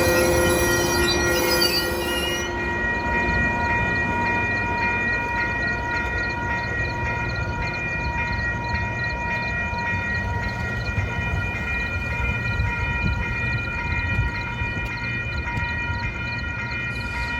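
A train passing close by with a continuous low rumble. Extra tones, likely the end of a horn blast, cut off about two seconds in, and a steady high whine runs over the rumble throughout.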